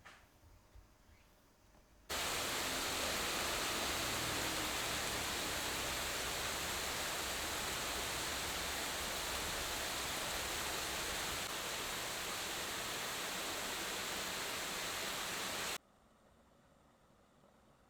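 A steady, even hiss that starts abruptly about two seconds in and cuts off abruptly about two seconds before the end.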